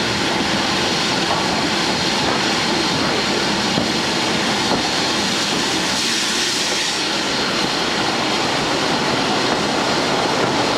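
Steady running noise of a slow-moving train, heard from aboard: an even rushing and rumbling with some faint wheel-on-rail sound.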